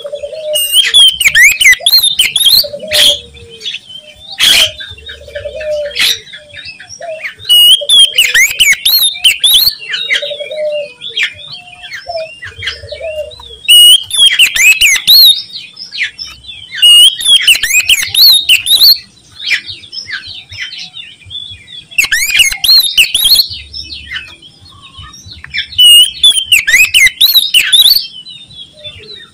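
Oriental magpie-robin singing loudly in repeated bouts of rapid, varied whistles mixed with harsh notes. Each bout lasts about two seconds and is followed by a short pause. A lower, short repeated call sounds beneath the song in the first half.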